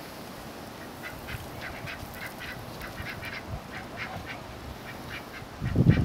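Domestic ducks giving a run of soft, short quacks, with a brief louder low rumble near the end.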